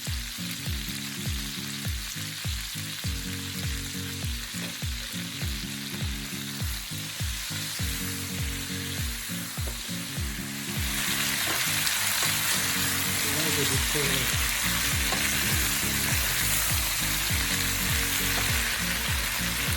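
Diced potatoes and carrots sizzling as they fry in hot oil and chicken fat in a pan; the sizzle grows louder about halfway through. Under it runs a steady low beat.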